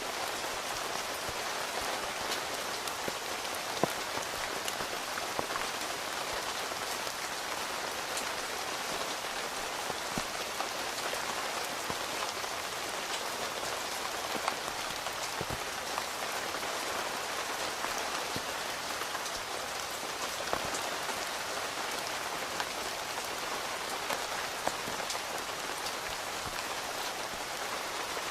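Steady rain falling on a tent, an even hiss with many scattered, louder single drop hits.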